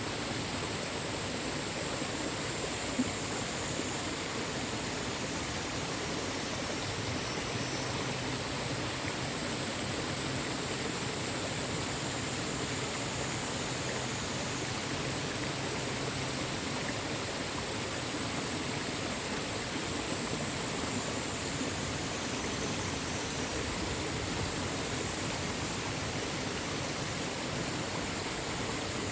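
Mountain valley stream rushing steadily over rocks, a constant even wash of water noise.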